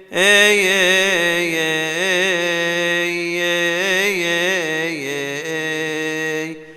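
A solo male voice singing a Coptic Orthodox hymn in one long, melismatic phrase of wavering ornamental turns on a single held vowel. The phrase begins right after a short breath and breaks off near the end.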